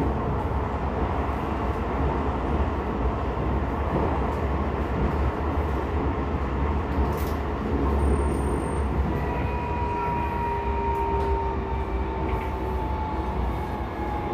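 Tokyo Metro 16000 series electric train heard from inside the car, wheels rumbling steadily on the rails. In the second half a faint motor whine slowly falls in pitch as the train slows.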